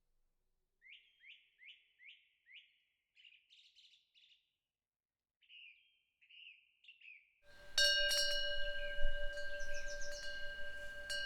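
A small songbird singing a run of quick chirped notes, a short trill, then three more notes after a pause. About seven and a half seconds in, a temple wind bell (punggyeong) starts ringing with a steady bright tone, struck again a couple of times as it sounds on.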